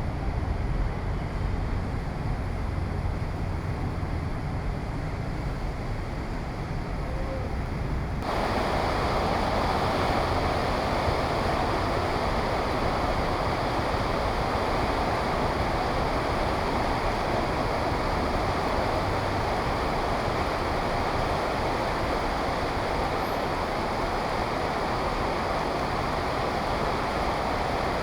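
Heavy rain pouring steadily, with wind. About eight seconds in the rain suddenly turns louder and hissier and keeps up at that level.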